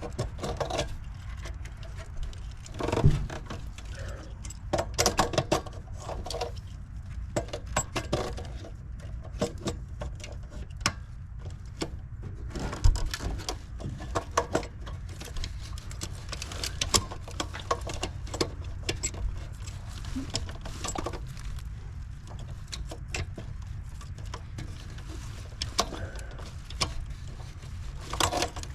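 Scattered metallic clicks and short rattles of hand tools and small parts being handled, over a steady low hum.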